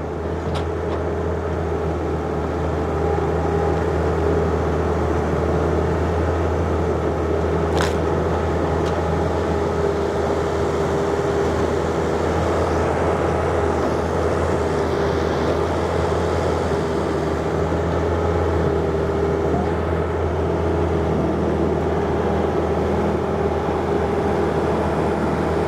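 John Deere 50ZTS mini excavator's diesel engine running steadily under load as the boom and bucket work, getting louder over the first few seconds. A single sharp click about eight seconds in.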